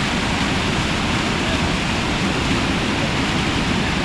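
Steady rush of water falling down a waterfall, an even, unbroken hiss at constant loudness.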